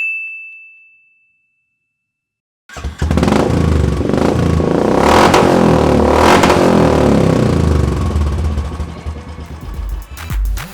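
A short ringing tone that fades out, then a gap of silence. Then a Royal Enfield Bullet's single-cylinder engine, breathing through a custom megaphone exhaust, runs loudly and is revved up and down twice before easing off near the end.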